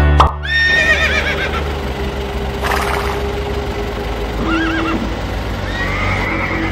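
Horse whinnying in three calls with a quavering pitch: one about half a second in, a shorter one near the middle, and a longer one near the end. A steady low rumble runs underneath.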